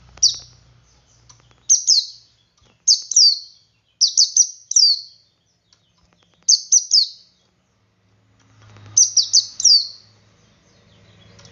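Male white-eye (pleci) singing in its 'ngalas' style: short bursts of two to four quick, high, down-slurred notes, repeated every second or so, with a longer pause of about two seconds in the middle.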